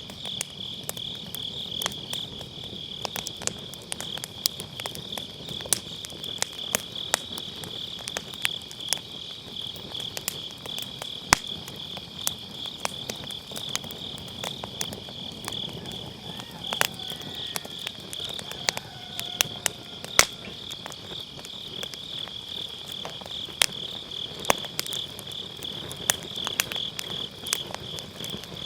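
Firewood burning in a round fire pit, crackling with frequent sharp irregular pops, one louder than the rest about eleven seconds in. Behind it, autumn grass insects keep up a steady, high, rapidly pulsing trill.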